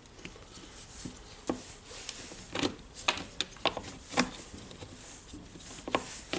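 Irregular light clicks and taps of small parts being handled and fitted into a Makita DHR202 rotary hammer's housing during reassembly, with a cluster of sharper clicks around the middle.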